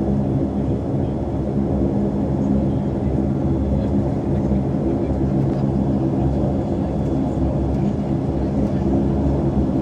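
Saab 340's twin turboprop engines and propellers running steadily: a constant drone of several steady tones over a low rumble.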